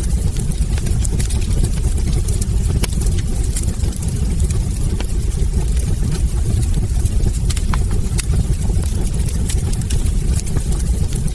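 Wood fire burning in a hearth: a steady low rumble of flame with frequent small crackles and pops from the logs.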